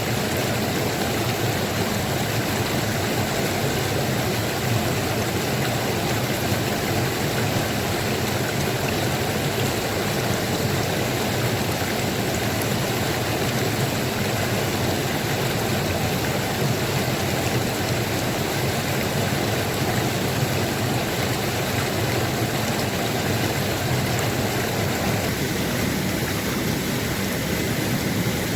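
Steady rush of flowing stream water, with its tone thinning slightly near the end.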